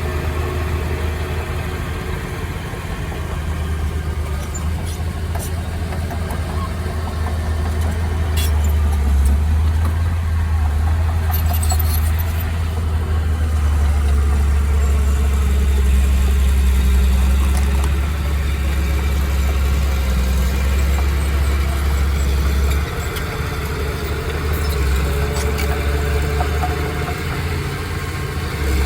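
Heavy machine's diesel engine running steadily with a deep low rumble, swelling a little partway through and easing back near the end, with a few sharp metallic clicks in the middle.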